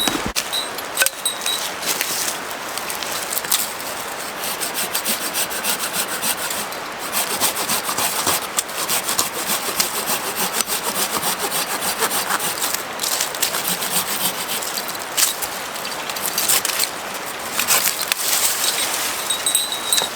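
Hand saw cutting through wood in steady back-and-forth strokes.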